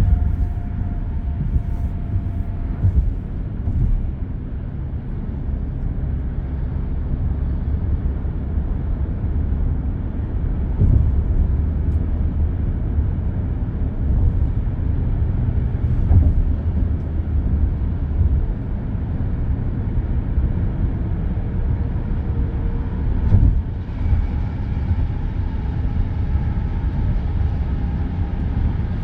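Expressway traffic noise: a continuous low rumble of tyres and engines, with brief swells as vehicles pass.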